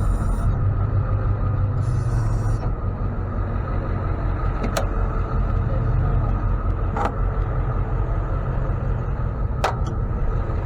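Tow truck engine running steadily with a low rumble, with a few short sharp clicks about five, seven and nine and a half seconds in.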